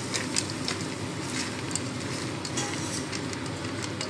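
Corn, red pepper and snow peas sizzling in a hot frying pan while a spatula stirs them, with scattered scrapes and clicks of the spatula against the pan.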